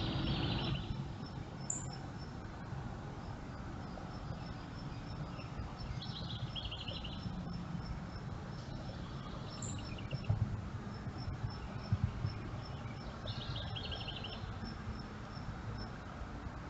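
Outdoor birdsong: a bird repeats a short trilled phrase three times, about every six or seven seconds, over a steady series of high, evenly spaced chirps, with a low rumble of background noise underneath.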